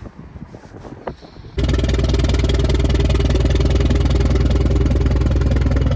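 Faint clicks and wind noise, then an engine suddenly running loud and steady about a second and a half in, with a fast even pulse.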